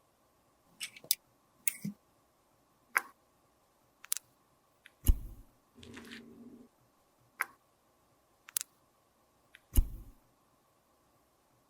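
Cosmetic containers and tools being handled: scattered sharp clicks and taps, with two heavier knocks about five and ten seconds in and a short low hum around six seconds.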